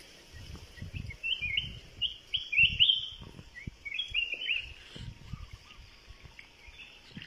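Small bird calling in quick runs of short, falling chirps, with irregular low rumbles underneath.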